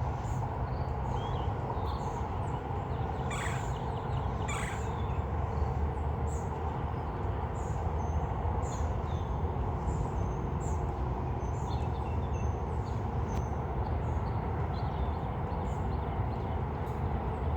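Wild birds calling: two harsh, caw-like calls about three and four and a half seconds in, and many short high chirps scattered throughout, over a steady low rumble.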